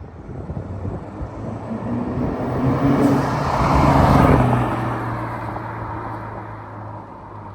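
Exhaust of a 2017 BMW 330i, a turbocharged four-cylinder, through a Valvetronic valved axle-back sport exhaust, the car driving past under power. It grows louder to a peak about four seconds in, then fades as the engine note drops slightly.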